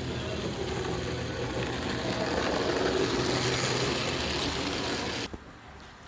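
Model train running along the layout track: a steady rumble with a low hum that grows louder toward the middle, then cuts off suddenly about five seconds in.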